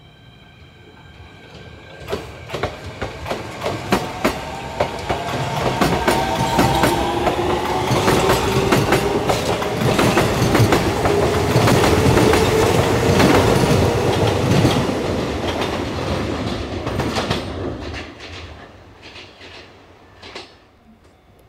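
Kintetsu electric train running past, wheels clattering over rail joints and its motor whine slowly rising in pitch as it gathers speed. The sound builds over several seconds, holds loud for several more, then fades away near the end.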